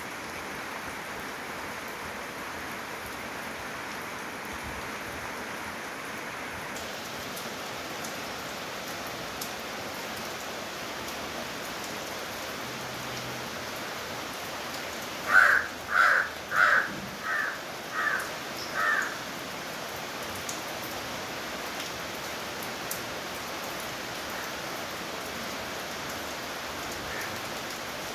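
Steady rainfall. About halfway through, a bird calls six times in quick succession, the first calls loudest and the rest growing fainter.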